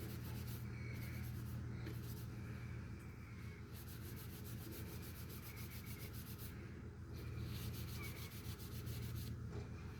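Mineral oil being rubbed into a dry wooden knife handle by hand: quick back-and-forth rubbing strokes in spells, with short pauses between them.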